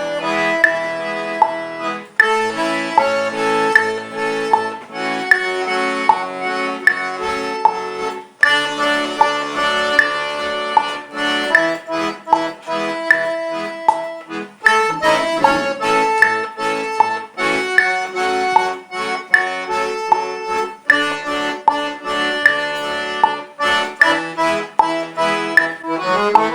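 Solo accordion (sanfona) playing a forró arrastapé tune in A major at a slowed practice tempo. The melody runs over a steady, rhythmic bass-and-chord accompaniment.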